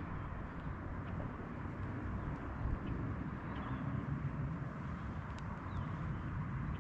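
Steady outdoor ambience by a lake: a low rumbling hiss with a few faint, brief bird chirps.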